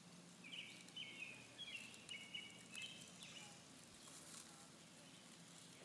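Faint bird song: a run of short, high chirping notes that step up and down in pitch, over a faint steady low hum.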